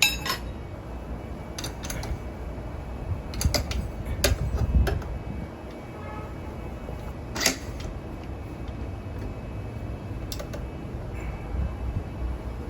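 Scattered clicks and knocks of metal tools against a motorcycle wheel as the tire is worked off its rim by hand, with a sharper knock about halfway through, over a steady low rumble.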